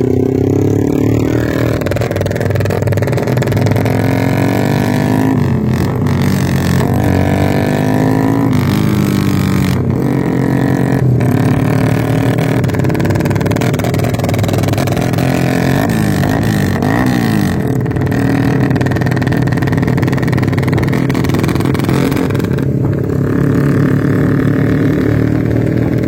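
Motorcycle engine running loud through an aftermarket Norifumi racing exhaust, its note rising and falling again and again with the throttle.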